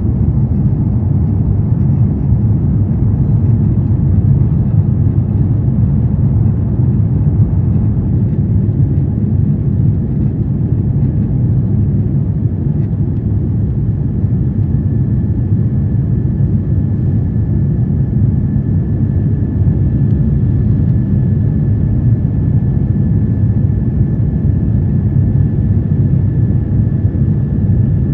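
Airbus A350-1000 cabin noise in flight: a steady, loud low rumble of the jet engines and airflow. A faint steady whine joins about halfway through.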